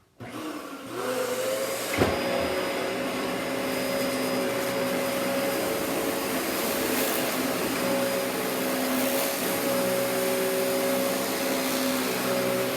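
Dyson DC14 upright bagless vacuum cleaner switched on, its motor whining up to speed over about a second and a half, then running steadily. A sharp knock comes about two seconds in.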